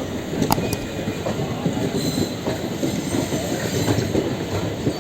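Train running along the track, its wheels rumbling and clattering over the rail joints, with a couple of sharp clicks about half a second in.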